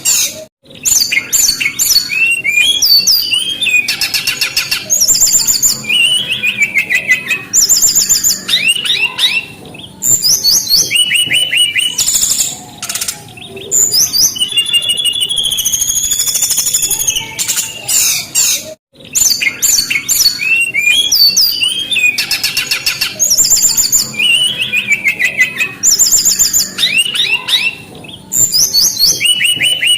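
Brown-chested jungle flycatcher singing: loud, quick phrases of high sliding whistles and rapid trills, one after another with short pauses between them.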